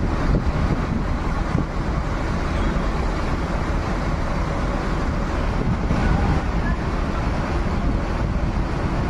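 Steady low engine rumble with wind buffeting the microphone.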